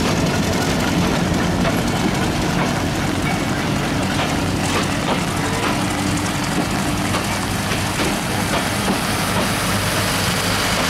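Broad-gauge passenger coaches rolling past close by: a steady rumble of steel wheels on the rails, with a few sharp clicks over the rail joints about four to five seconds in.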